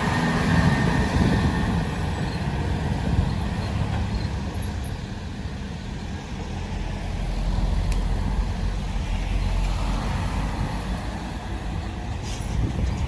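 Heavy truck running on the road, a steady low engine rumble with traffic noise that swells slightly a little past halfway.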